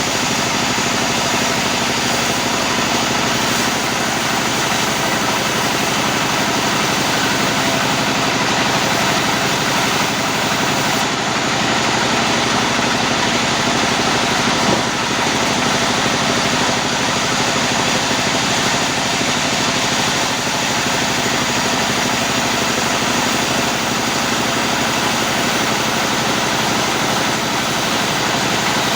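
Sawmill machinery running steadily with an engine-like drone, with no clear starts or stops.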